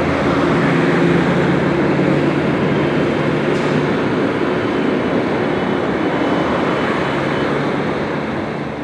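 Scania diesel engine of a Busscar Busstar DD double-decker coach running, a deep engine hum that gives way to a steady rush of noise after about three seconds.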